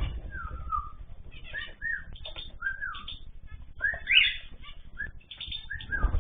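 Pet cage birds chirping, many short calls rising and falling in pitch, with a low thud near the end.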